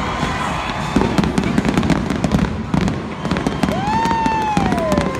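Aerial fireworks shells bursting and crackling in rapid succession. Near the end a drawn-out pitched whistle or whoop rises briefly, then slides down.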